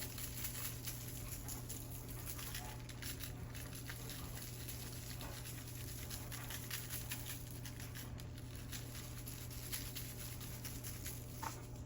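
Faint, rapid, irregular pattering of adobo seasoning being shaken from its container onto food on a metal cookie sheet.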